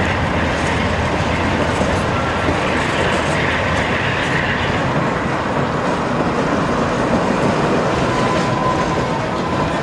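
Canadian Pacific Holiday Train's boxcars rolling steadily past, a continuous rumble and clatter of steel wheels on the rails.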